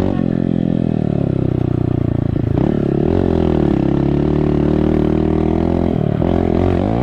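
Small engine of a ride-on vehicle running under throttle. Its pitch dips and climbs back as the throttle changes, once about two and a half seconds in and again near the end.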